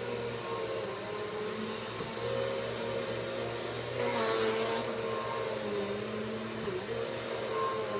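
Vacuum cleaner running steadily while in use, its motor tone wavering slightly in the second half, with a brief louder rush of air about halfway through.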